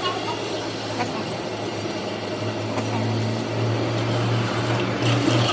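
A machine running with a steady low hum under a noisy mechanical wash, growing louder through the second half, with a few faint metallic ticks.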